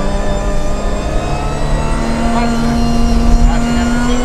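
BMW 325 Group A rally car's straight-six engine heard from inside the cabin, running hard on a stage. The engine note holds steady, steps up in pitch about halfway through, then climbs slowly.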